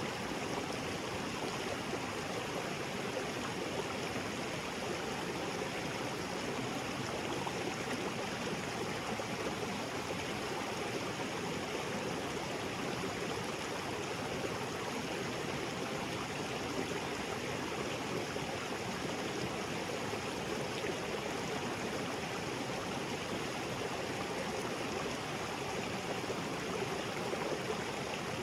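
Small waterfall on a jungle creek, water pouring and splashing over rocks in a steady, even rush.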